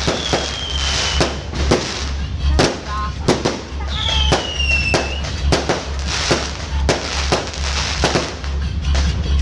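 Fireworks going off in quick succession, many sharp bangs and pops, with two descending whistles, one near the start and one about four seconds in.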